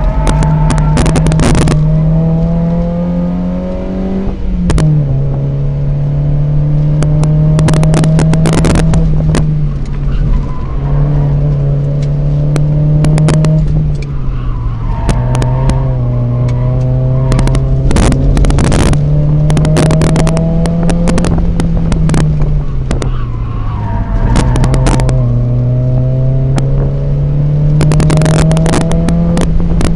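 Mazda MX-5 NA 1.8's four-cylinder engine heard from inside the cabin, running hard around a circuit. Its pitch climbs and then drops several times as it shifts and brakes for corners, over repeated sharp thuds and road noise.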